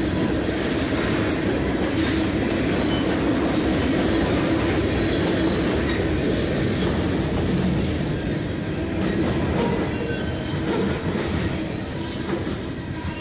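Freight train of tank cars, hoppers and boxcars rolling past close by: a steady rumble of steel wheels on rail with irregular clicking from the wheel trucks and a faint thin squeal, easing off a little over the last few seconds.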